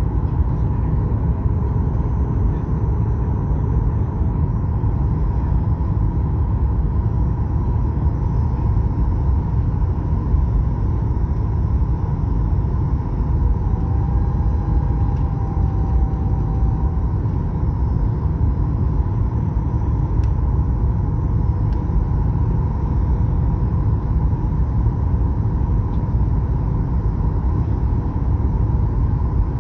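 Cabin noise inside a Boeing 737 MAX 8 airliner, its CFM LEAP-1B engines and airflow making a steady, even rumble with a faint constant hum above it.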